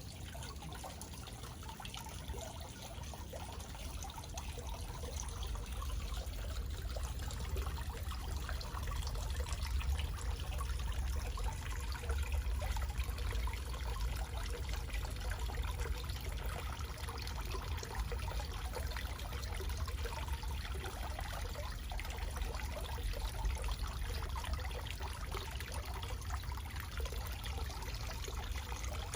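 Small backyard waterfall: water splashing and trickling steadily, with a low rumble underneath.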